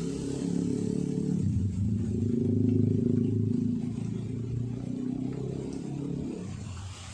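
A motor vehicle's engine running past. It grows louder to a peak about three seconds in and then fades.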